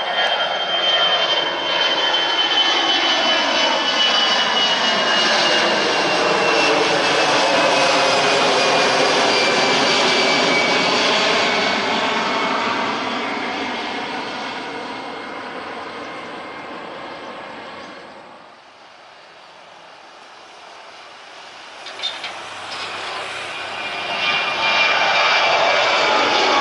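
Jet airliner passing close by: a loud engine rush with a high whine that slowly falls in pitch, fading away over several seconds. About 18 seconds in the sound drops abruptly, a short knock follows a few seconds later, and loud engine noise builds again near the end.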